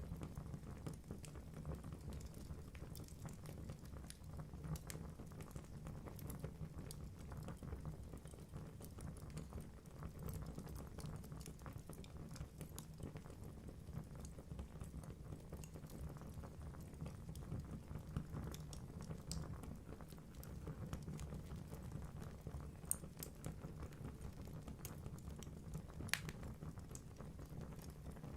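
Wood fire burning in a fireplace: logs crackling with scattered small pops over a low, steady rumble of flame. Two sharper pops stand out near the end.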